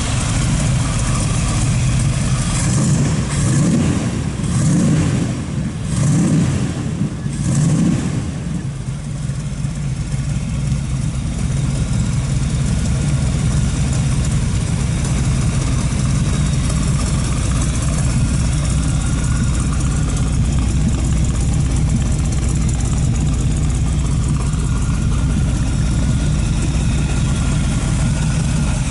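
The T-Bucket's 327 Chevrolet small-block V8, breathing through open chrome side pipes, is revved in several quick blips at the start and then settles into a steady idle.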